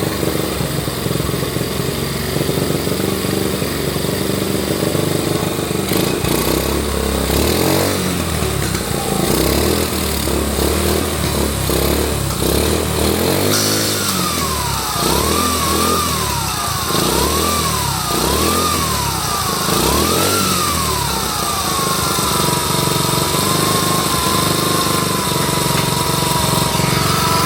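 Honda Trail 70's small single-cylinder four-stroke engine running and being revved in blips. About halfway through a high whine comes in, rising and falling with each rev, then holding steady: a supercharger-like whine that the owner takes for something grinding inside the engine.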